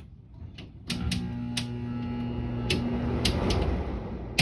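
A window air conditioner powered up about a second in, with a steady electrical hum and fan rush and several sharp clicks. The owner says the unit is not starting.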